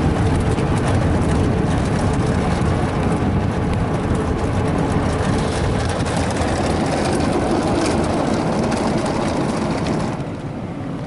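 Brushes of a Ryko Softgloss Maxx 5 car wash scrubbing the front of an SUV, a loud, dense, steady rush heard from inside the cabin. It drops off sharply about ten seconds in, as the scrubbing stops.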